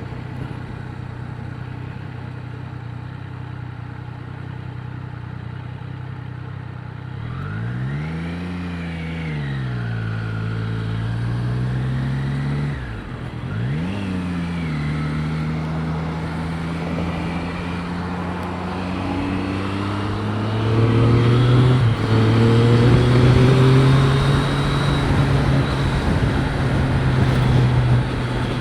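Triumph Street Triple 765 RS inline-three engine and wind noise heard from a microphone inside the rider's helmet. The engine runs steadily at first, revs up about seven seconds in and falls back, then drops and climbs again through a gear change near the middle. It gets louder as it pulls harder about two-thirds of the way through.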